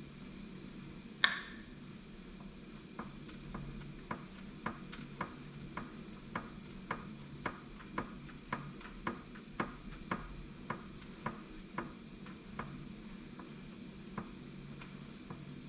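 Light metallic clicking in the workshop: one loud sharp click about a second in, then a regular run of lighter clicks about two a second that fade out, over a faint steady hum.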